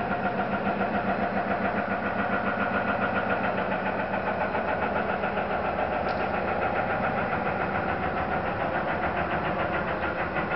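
An unexplained droning hum, like heavy machinery, made of several steady tones and pulsing rapidly and evenly several times a second. It is one of the 'strange sky noise' recordings, and its source is not known.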